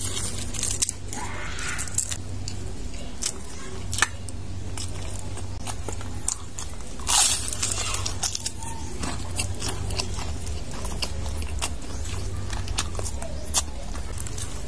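Crispy deep-fried pork intestine (chicharon bulaklak) being bitten and chewed: scattered sharp crunches, with one big crunching bite about seven seconds in. A steady low hum runs underneath.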